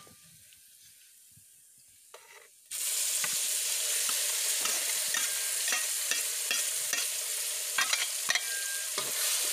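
Onion, garlic and ginger paste sizzling in hot oil and ghee in a kadai, starting suddenly almost three seconds in. A spoon clicks and scrapes against the steel mixer jar as the paste is scraped out.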